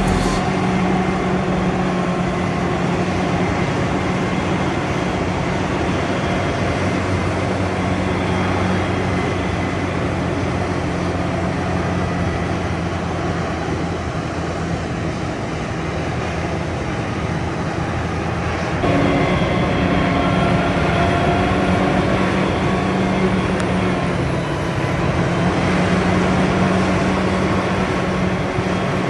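Heavy diesel farm machinery running with a steady engine drone. The sound changes abruptly about two-thirds of the way through, then runs on steadily.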